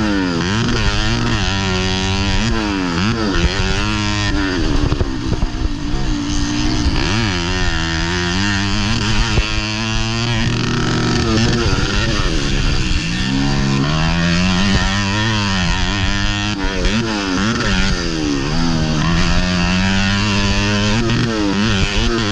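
Modified underbone motorcycle engine heard from on board while racing, revving up and dropping back again and again as the throttle is worked and gears change.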